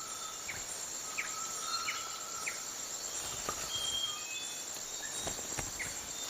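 Tropical rainforest insect chorus: a steady high-pitched drone, with scattered short whistled notes and brief chirps from other animals over it.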